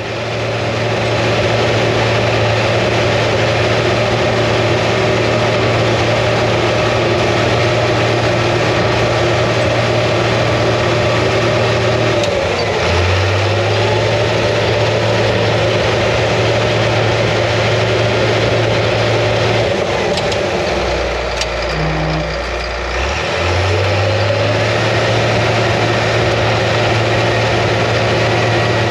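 International TD-15C crawler dozer's DT466 six-cylinder diesel running steadily under load while pushing topsoil. Its note dips a little about halfway through, then drops low for a couple of seconds about three-quarters of the way through before picking back up.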